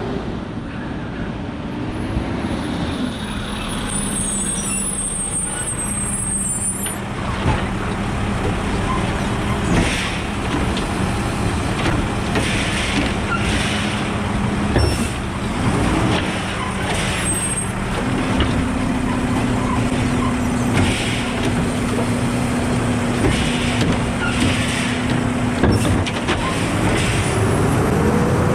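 Garbage truck running at the curb while it tips polybins, with a steady hydraulic drone that shifts pitch a few times as the lift works. Short air brake hisses come now and then.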